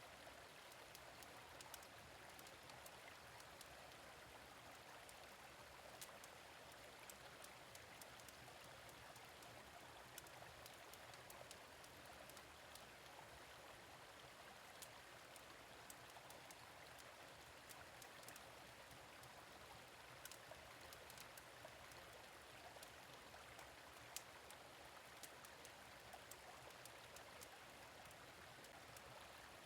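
Gentle stream flowing with a soft, steady rush, and a fire pit crackling with scattered faint pops and snaps.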